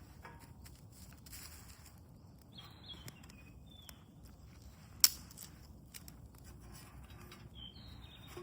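A bird calling twice with short falling whistled notes, among faint outdoor clicks and rustles. One sharp crack sounds about five seconds in.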